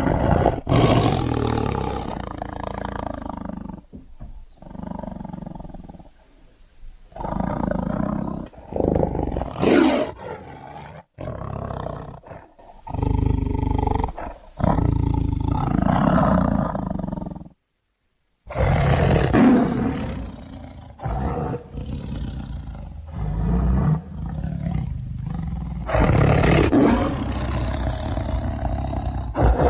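Tiger roaring: a series of loud, rough roars one after another with short pauses between them, and a brief full silence a little past the middle.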